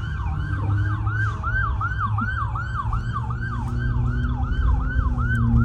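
Emergency-vehicle siren in a fast yelp, its pitch sweeping up and down about four times a second, over the low rumble of a car engine.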